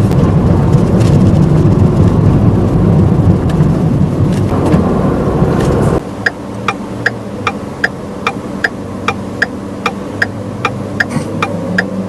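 Car cabin noise of a manual car on the move, a steady low road and engine rumble, which cuts off abruptly about halfway through. After that the engine hums quietly and the turn-signal relay ticks steadily, about three ticks a second, as the car waits to turn.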